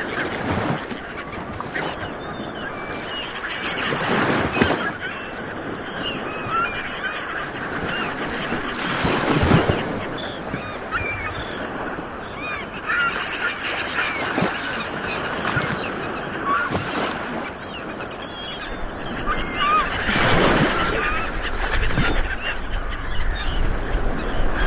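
Waves washing onto a shore, swelling louder about four seconds in, near the middle, and again about twenty seconds in. Over the surf, a flock of birds keeps up a constant chatter of short calls.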